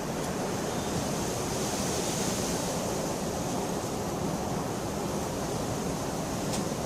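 Steady rain falling, an even hiss without pause, with one faint tick near the end.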